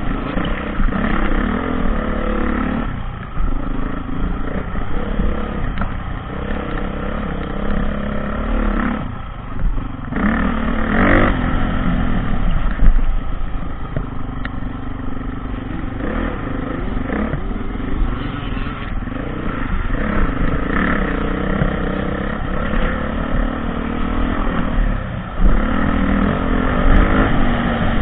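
Dirt bike engine running hard while ridden off-road, its pitch rising and falling every few seconds as the throttle is opened and closed, with several brief let-offs.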